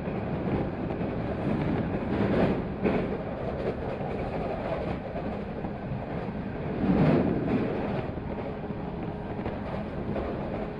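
Running noise of a 185 series electric train heard from on board: a steady rumble of wheels and motors, with two brief louder surges about two and seven seconds in.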